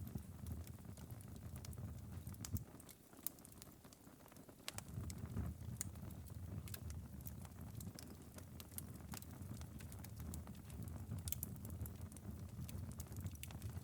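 Wood-burning fireplace's glowing ember bed, late in a long burn, crackling with scattered sharp pops and ticks over a low rumble of the fire. The low rumble drops away for about two seconds a few seconds in, while the crackles go on.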